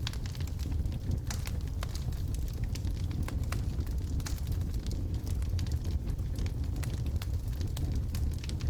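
Logs burning in a fireplace: a steady low rumble of flames with frequent sharp, irregular crackles and pops.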